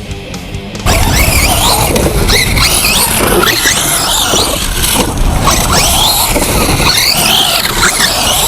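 Sensored brushless electric motor of a 1/8-scale RC short course truck whining, its pitch rising and falling over and over with the throttle, over a rush of tyres on dirt. It comes in suddenly about a second in.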